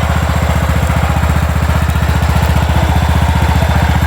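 Riding lawnmower's small engine running steadily close by, with a fast, even putter.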